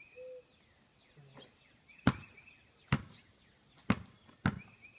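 A basketball bouncing on hard ground: four sharp bounces at uneven gaps, starting about two seconds in.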